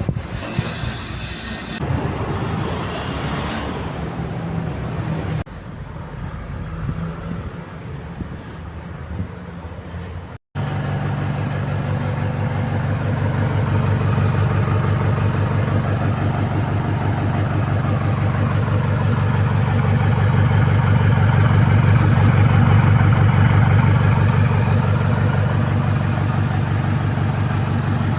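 Isuzu Panther's diesel engine running through a newly fitted bolt-on exhaust, giving a steady, deep, evenly pulsing exhaust note that swells slightly in the middle. Before this, mixed workshop noise opens with a brief hiss.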